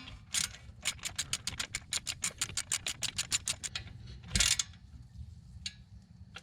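Socket ratchet clicking rapidly, about eight clicks a second for some three seconds, as it runs in the 10 mm bolt holding the rear ABS sensor. A short clatter follows about four seconds in, then a few scattered clicks.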